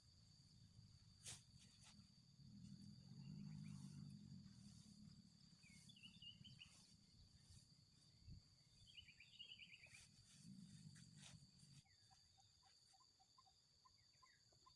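Faint outdoor ambience: a steady high insect drone, with a few short bird chirps and a low muffled noise that swells twice.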